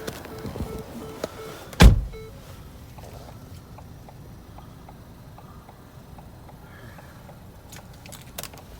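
Power panoramic sunroof of a 2015 Ford Escape Titanium being operated: a sharp thunk about two seconds in, then its electric motor running with a steady low hum, and a few small clicks near the end.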